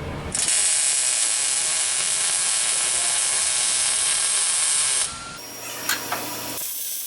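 Welding arc running on a sheet-steel rust-repair patch panel: a steady sizzling hiss for about five seconds that stops abruptly, followed by a fainter low hum.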